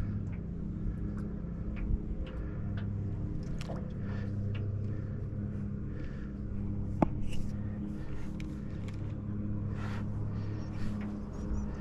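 Steady low hum of a running motor, with scattered light clicks and one sharp tap about seven seconds in.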